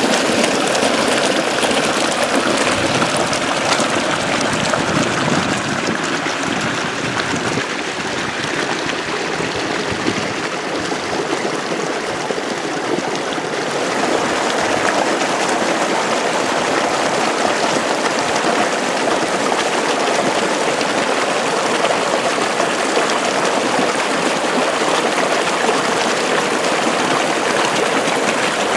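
Water flowing steadily along an open irrigation ditch (acequia). The sound becomes slightly brighter and hissier about halfway through.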